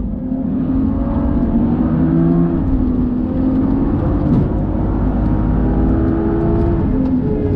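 BMW car engine at full throttle, heard from inside the cabin: revs climb, drop at a quick upshift about three seconds in, then climb again to about 6,500 rpm before the pitch falls near the end.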